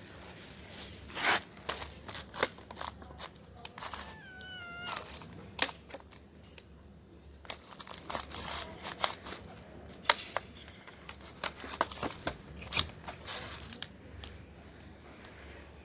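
Kittens eating cat food, with irregular wet chewing and smacking clicks throughout, and one short kitten meow about four seconds in.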